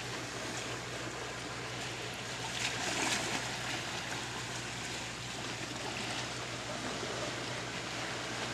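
Water lapping and trickling against dock pilings as a steady wash of noise, a little louder about three seconds in, over a low steady hum.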